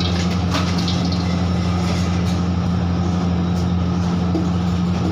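Steady, loud machine hum with a rushing noise over it, like a motor or blower running without pause, with a few light clicks about half a second in.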